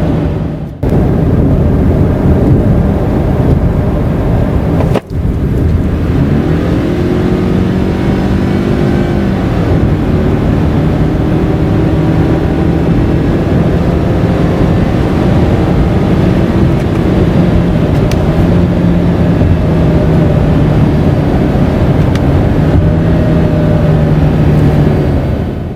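Subaru Crosstrek e-Boxer's 2.0-litre flat-four hybrid engine running under way with road noise. Its note climbs for a few seconds then holds at a steady pitch, with two brief dropouts in the sound near the start.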